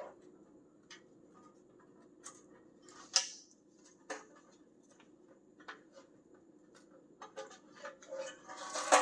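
Hand tools working on the metal of a truck body: scattered clicks and knocks, coming faster near the end and finishing with a louder metallic clank that rings briefly.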